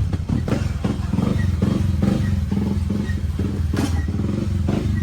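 Motorcycle engine running under way, its pitch stepping up and down, with a few short knocks.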